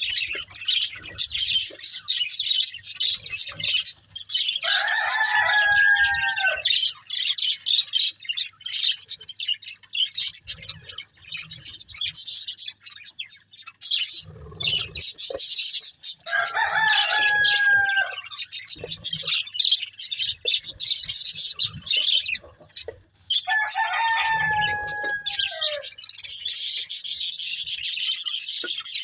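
A group of budgerigars chirping and chattering continuously in quick, high twitters. Three longer, lower drawn-out calls of about two seconds each cut through the chatter, one early, one about midway and one near the end.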